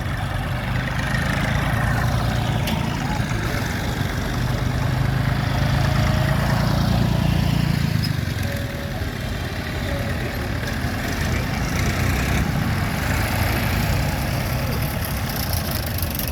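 Tractor engines running, with a deep engine note that grows louder in the first half and eases off about halfway through.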